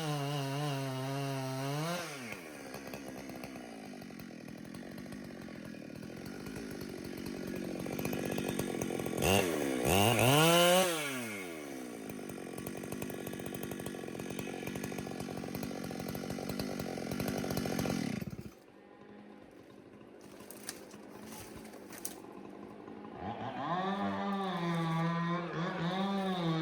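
Chainsaw ripping a log lengthwise into boards. The engine runs high under load, drops back about two seconds in, revs up and down again around ten seconds, and cuts off suddenly about eighteen seconds in. Near the end it runs at high revs again.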